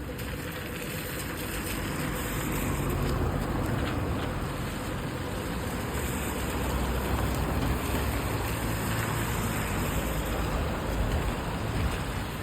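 Road traffic on rain-wet city streets: a steady rumble of engines and tyre noise that grows louder about two seconds in.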